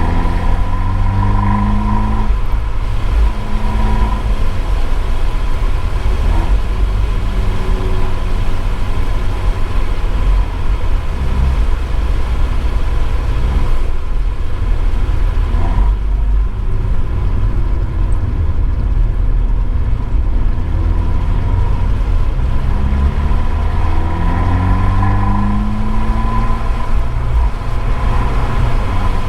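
Abarth 595 esseesse's turbocharged 1.4-litre four-cylinder running loud through its Akrapovič exhaust, picked up by a microphone in the boot, rising in pitch under hard acceleration and dropping back at each gearchange, several times.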